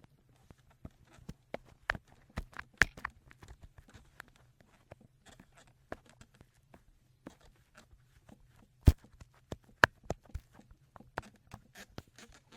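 Adhesive cotton swab scraping and rubbing on an ear microphone in ASMR ear cleaning, giving irregular crunchy, scratchy crackles and clicks, with a sharp louder pop about nine seconds in.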